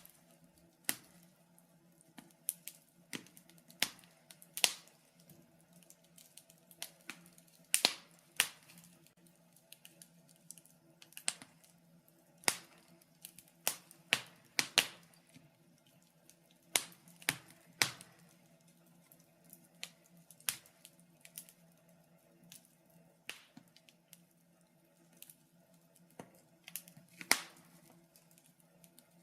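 Wood fire in a fireplace crackling, with sharp pops and snaps at irregular intervals, sometimes two or three close together, over a faint steady low hum.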